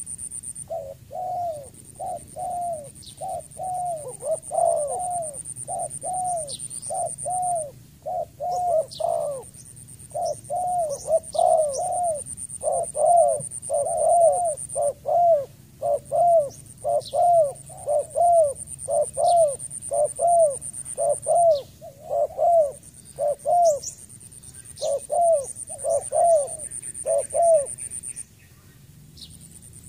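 Spotted dove giving a long, rapid run of short cooing notes, about two a second, with a short break near the end. Small high chirps from other birds come and go over a steady high-pitched hiss.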